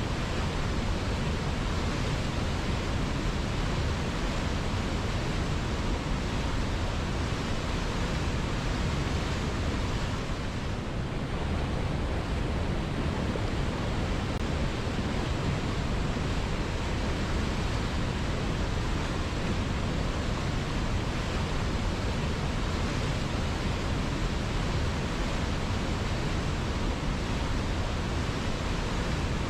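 River water flowing, a steady rushing noise with no breaks.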